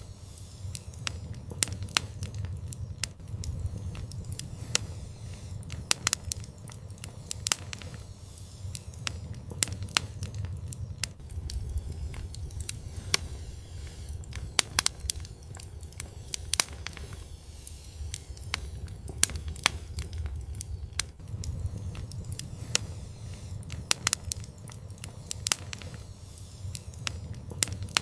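Wood fire in an outdoor fireplace crackling and popping, with several sharp snaps a second over a steady low rumble of the burning.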